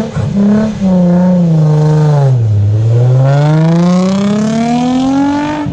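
A Nissan 370Z's V6 engine revved hard through its aftermarket exhaust: the revs jump up, ease and dip to a low point about halfway through, then climb steadily to a high, loud rev near the end.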